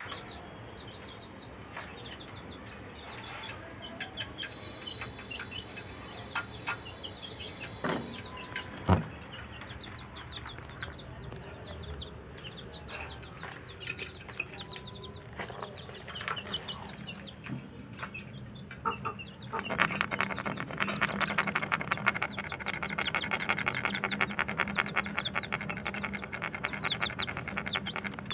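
Small cage birds, budgies, chattering and chirping in many short high notes, growing busier and louder about two-thirds of the way through. There are two sharp knocks about a quarter of the way in.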